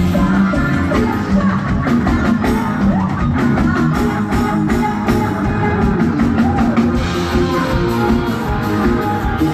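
Live band music from a stage show, amplified through a PA: drum kit keeping a steady beat with electric guitar, and singing at times.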